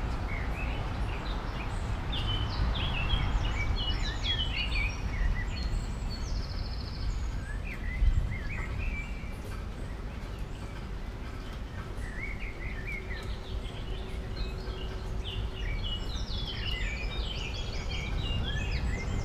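Small birds chirping in quick, twittering runs, busiest in the first few seconds and again in the second half, over a steady low background rumble; a single thump about eight seconds in.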